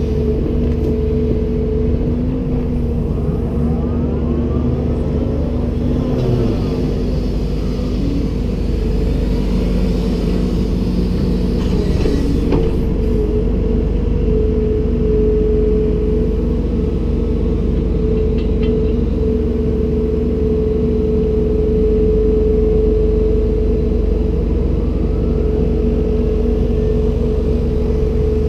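Komatsu PC290-10 excavator's diesel engine running steadily, a low rumble with a steady whine over it, and a brief knock about twelve seconds in.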